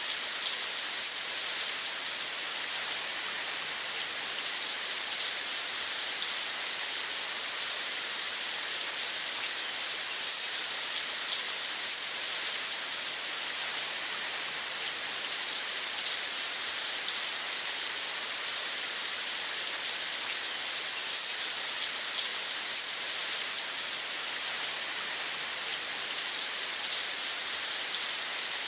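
Steady rain falling: an even hiss with a fine patter of drops that holds unchanged throughout.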